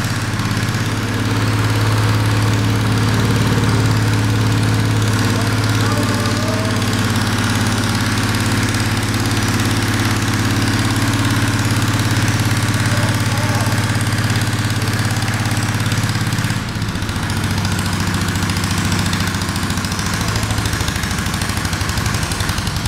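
Small combustion engine of a Shell Eco-marathon car running steadily at idle with a strong low hum. About three-quarters of the way through, its note shifts and it drops slightly in level.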